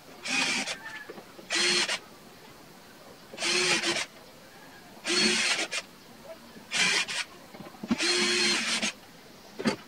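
A power tool cutting wood in short bursts: seven runs of about half a second to a second each, roughly every second and a half, each starting and stopping abruptly.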